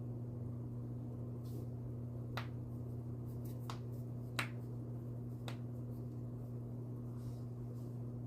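A handful of sharp, irregularly spaced clicks, the loudest about halfway through, over a steady low hum.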